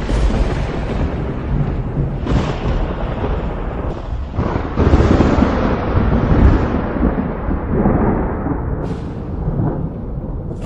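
Thunder rolling and cracking over steady rain. A few sudden peals break in, the loudest about five seconds in, and the rumble dies down toward the end.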